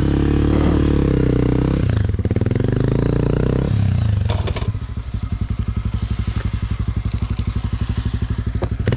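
Dirt bike engine running steadily, then dropping to a lower, pulsing idle about four seconds in.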